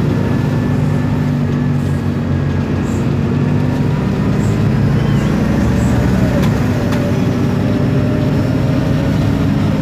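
Isobus City 1200 city bus's MAN D0836 LOH six-cylinder diesel running steadily under way, with a faint thin whine above the engine hum.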